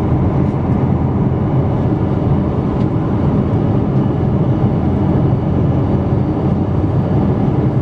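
Steady cabin noise inside a Boeing 777-200 airliner: an even, low rumble of engines and air with no change in level.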